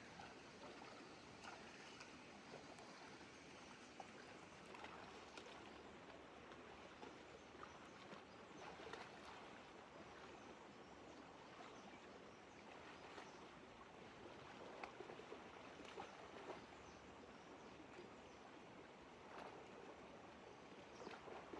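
Near silence: faint outdoor background hiss with scattered soft ticks and rustles.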